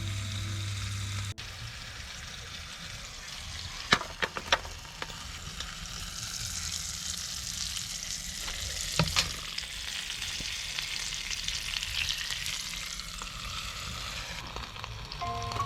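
Food frying in a hot sandwich maker over a campfire: a steady, high sizzle with a few sharp clicks and ticks. Background music plays for about the first second, then stops abruptly, and comes back near the end.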